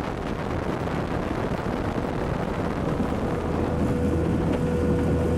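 Carniti racing outboard motor running at speed on a vintage racing boat, a dense steady engine noise with wind and water rush, cutting in suddenly at the start. A steady higher tone joins about halfway through.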